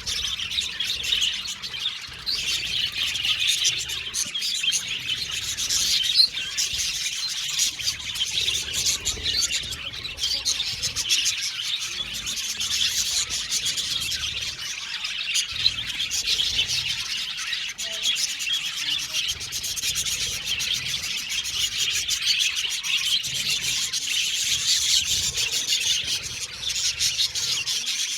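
A colony of budgerigars chirping and chattering without pause, many birds calling over one another.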